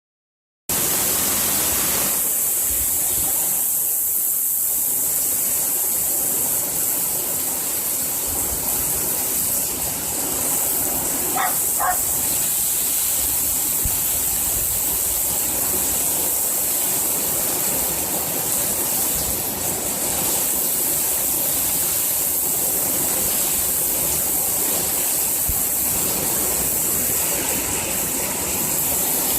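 Heavy typhoon-like downpour: torrential rain pouring down in a steady, loud rushing hiss.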